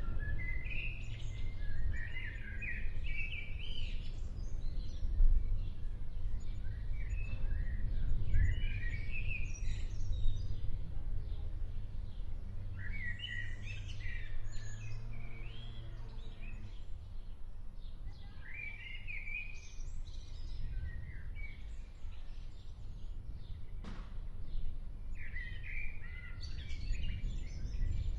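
A songbird singing short bursts of quick, warbling notes about every five or six seconds over a steady low rumble, with one sharp click near the end.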